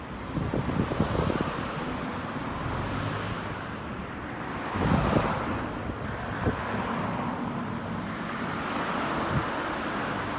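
Outdoor street ambience: steady traffic noise with wind buffeting the microphone in gusts, strongest about a second in and again about halfway through.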